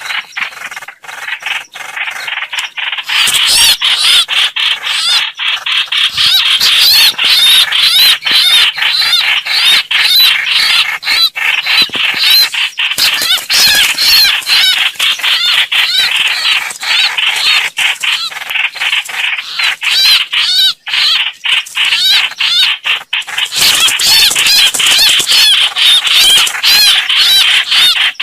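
Hoành hoạch bird calling over and over in fast, arched notes that run on with only a brief break about two-thirds of the way through. It is a lure recording made for bird trapping.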